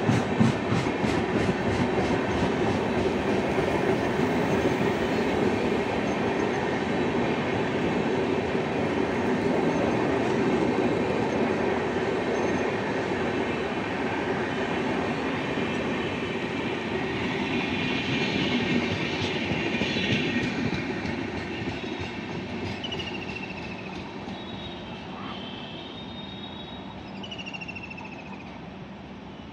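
Passenger train of LHB coaches rolling past at slow speed: a steady rumble and clatter of wheels over the rails that fades away over the last third as the end of the train passes and draws off. A few short high squeaks come near the end.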